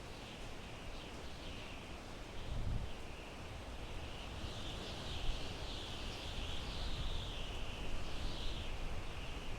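Wind blowing through pine trees: a high hiss that swells and fades, with low gusts rumbling on the microphone about two and a half seconds in.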